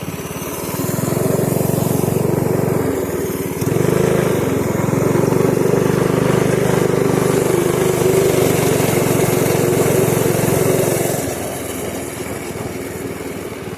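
Pit bike engine pulling under throttle. It rises about a second in, eases off briefly near three seconds, then holds at a higher, steady speed until it drops back near the end.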